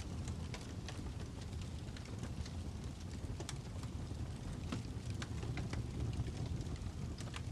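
Wood fire crackling: irregular sharp crackles and pops over a steady low rumble of the flames.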